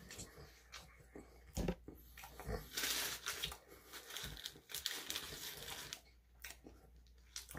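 Chewing a mouthful of shawarma wrap, with the paper wrapper crinkling in the hands: scattered soft clicks and a stretch of rustling about three seconds in.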